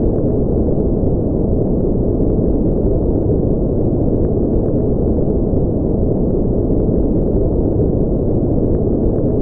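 Steady synthetic noise track for sleep, a deep, even rush with no hiss on top, closer to brown noise than to true white noise.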